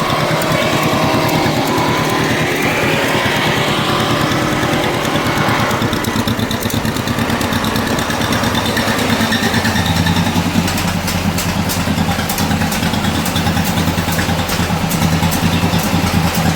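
Tractor engine running steadily at close range as it is driven up to and onto a trailer for loading. Its note grows heavier about ten seconds in.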